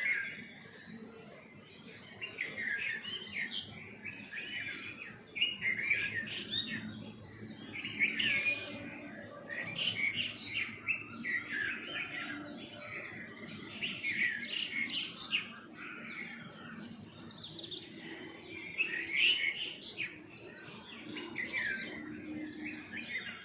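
Several small songbirds chirping in rapid bursts of short, high notes, with brief pauses between bursts.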